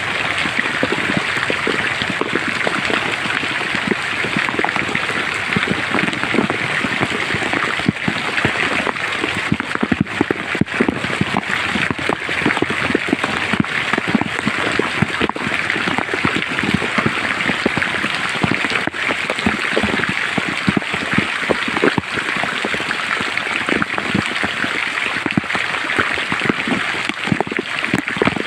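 Steady rain falling in a forest: an even hiss of countless small drop impacts, with no let-up.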